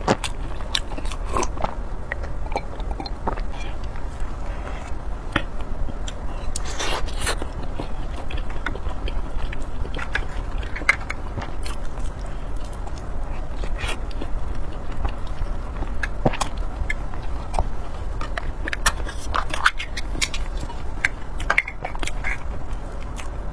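Close-up eating sounds: chewing and biting, with irregular wet mouth clicks and smacks over a steady low hum.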